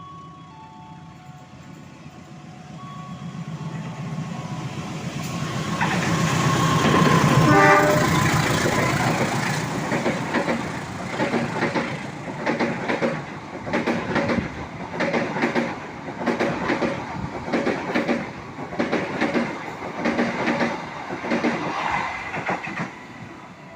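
A train passing at close range: the locomotive builds to its loudest about eight seconds in, then the carriage wheels clack over the rail joints in an even rhythm, roughly once a second.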